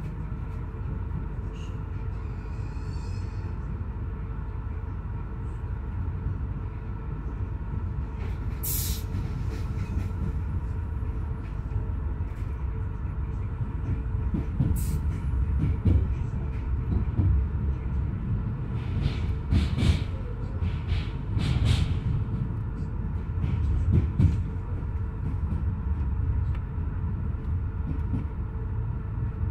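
Passenger train running along the line: a steady rumble of wheels on the rails under a steady hum, with sharp knocks and clatter from the running gear now and then, several close together past the middle.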